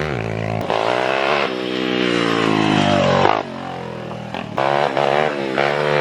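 Small motorcycle engine revving: the pitch climbs for about three seconds, drops off suddenly as the throttle closes, then comes back in several shorter blips of revs.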